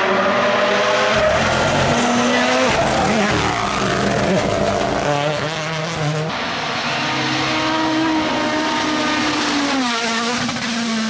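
Rally car engines at full throttle, the note climbing and dropping sharply with each gear change and lift, over tyre skid noise. The sound changes abruptly about six seconds in, then a steadier engine note follows.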